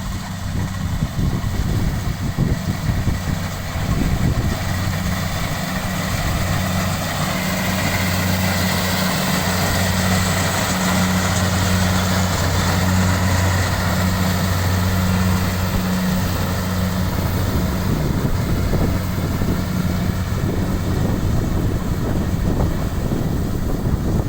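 An engine running steadily with a low, even hum over a hiss.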